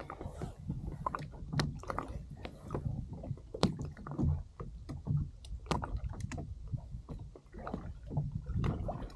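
Irregular knocks, clicks and rattles of gear being handled on a plastic fishing kayak, over a low rumble of water and wind.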